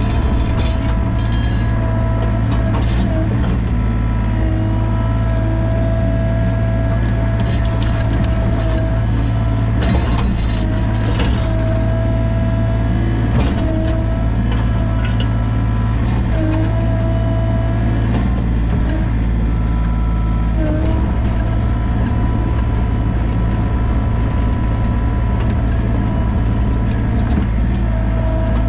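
Sany mini excavator's diesel engine running steadily under hydraulic load, with a pump whine that dips briefly every few seconds as the controls are worked. Occasional knocks and clanks sound from the machine at work.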